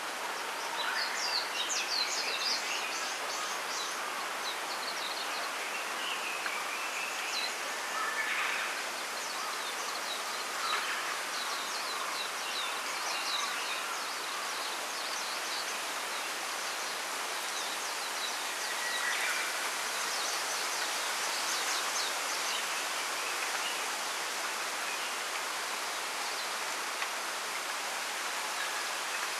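Small birds chirping and twittering in scattered bursts, with a busy flurry about a second in and another around twenty seconds in. Under them runs a steady rustling hiss of wind in bamboo leaves.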